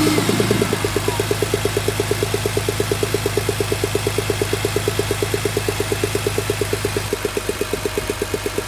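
BMW E46 M3's S54B32 3.2-litre inline-six idling with a strange rhythmic pulsing noise, about eight beats a second. A higher whine falls away within the first second as the idle settles.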